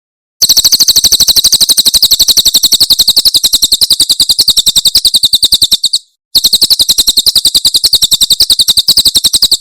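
Cililin bird singing its 'tembakan' burst song: a fast, even run of sharp, high chirps, about ten a second, in two long bursts with a short break about six seconds in.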